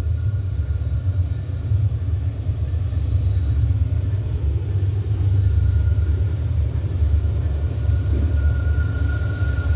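Low, steady rumble of a freight train's diesel locomotives approaching through the rail tunnel, with a faint high steady whine that grows stronger in the second half.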